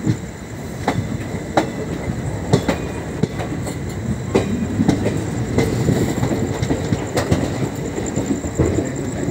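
Indian Railways passenger coach rolling along the rails, heard from the side of the moving train: a steady rumble of wheels on track broken by irregular sharp clacks as the wheels cross rail joints and points.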